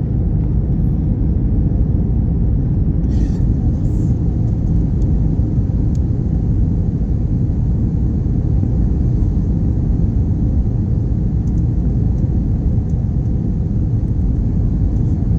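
Steady low rumble of an Airbus A321's cabin noise, engines and airflow heard from inside the cabin, with a few faint clicks about three to four seconds in.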